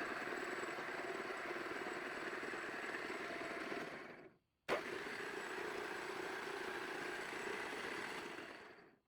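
OF-55 universal milling machine running its spindle through its gear train in two short steady runs, split by a brief break about four and a half seconds in, as different spindle speeds are tried. It runs smoothly, the sound of the newly rebuilt gearbox in working order.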